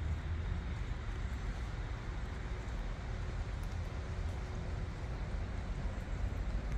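Outdoor city ambience: a steady low rumble of traffic, with no distinct events standing out.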